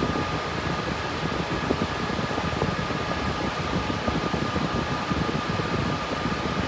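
Cooling fans of a GPU mining rig built on RTX 3060 Ti cards, running steadily under mining load: an even fan noise with a faint high whine held on one pitch.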